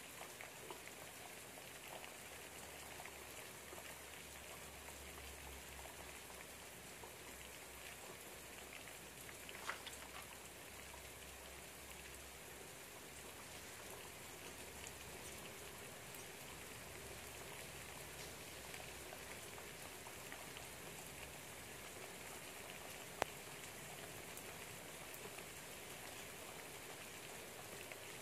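Steady light rain falling outside a window, heard faintly. Two short clicks cut through it, one about a third of the way in and a sharper one later.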